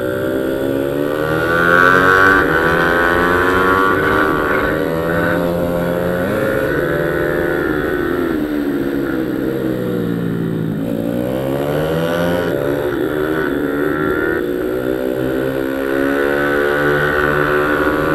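Pit bike engine revving hard as it is ridden round a track, its pitch climbing and dropping repeatedly as it accelerates and slows, with its lowest point about ten seconds in before it climbs again.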